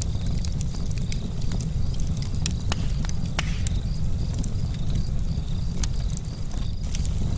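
Camping charcoal fire crackling, with irregular sharp pops and ticks over a steady low rumble.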